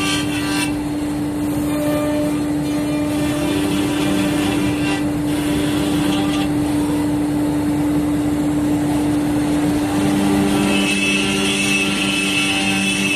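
CNC router running: a steady spindle hum over cutting and machine noise, with a higher whine joining about ten seconds in.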